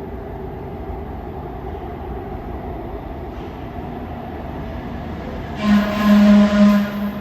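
Steady rumble of a subway train in the station, then near the end a loud, low-pitched train horn sounds for about a second and a half.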